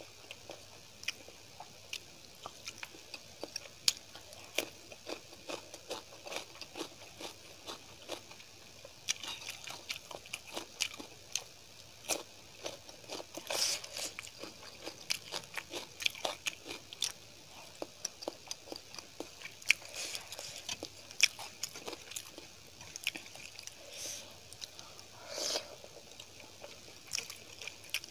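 Close-miked eating: a person biting and chewing crunchy food with many short, sharp crunches and wet mouth sounds, while rice and curry are mixed by hand on a steel plate.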